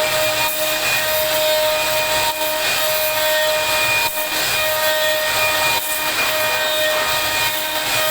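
CNC router spindle cutting wood: a steady high whine over dense cutting noise, briefly dipping about every couple of seconds.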